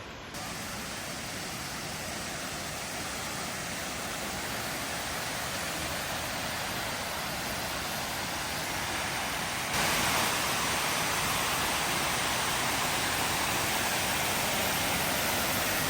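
Steady rushing roar of a large waterfall, an even wash of noise that gets louder about ten seconds in.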